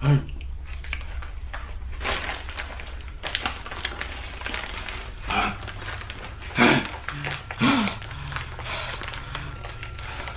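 A person breathing hard and letting out several short pained groans, a reaction to the sting of ghost pepper chips in the mouth. A steady low hum runs underneath.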